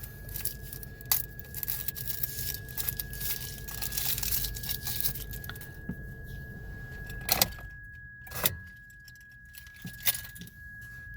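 A steady, high-pitched tone of unknown origin that stops suddenly at the end, over rustling and crinkling with a few sharp clicks, two of them louder, past the middle.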